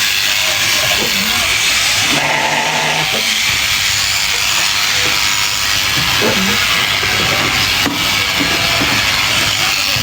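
Electric sheep shears running steadily through a fleece, a continuous loud hissing buzz.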